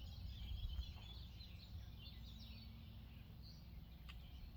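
Faint outdoor background: small birds chirping and twittering at a distance over a steady low rumble, with one light click about four seconds in.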